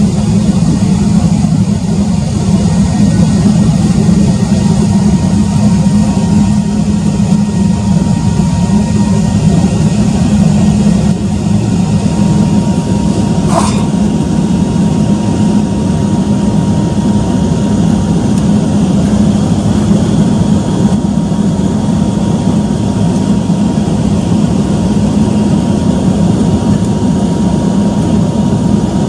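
Embraer 195-E2's Pratt & Whitney PW1900G geared turbofans running steadily, heard inside the passenger cabin as a loud, even, low rumble with a faint steady whine. A single short click sounds about halfway through.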